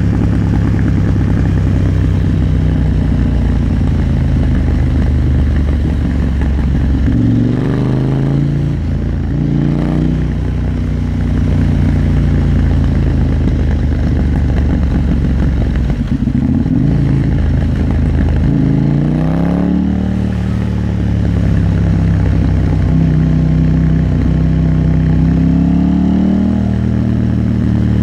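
KTM 890 Duke R parallel-twin engine running under way. Its note climbs and drops several times as the revs rise through the gears, twice in quick succession about a third of the way in, again past two-thirds, and near the end.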